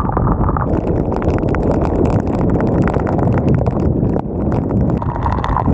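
Raindrops tapping irregularly and rapidly on a helmet-mounted action camera, over a steady low rumble of wind buffeting its microphone while riding.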